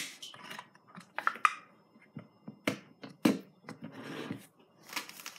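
Scattered clicks, taps and crinkling as a plastic tub of spread is handled and its foil seal peeled back, with one sharper knock a little after the middle.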